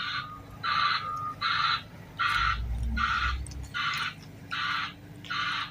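Reversing alarm of the broadband, white-noise type: a hissing beep that pulses about once every 0.8 seconds, with a machine engine running faintly underneath.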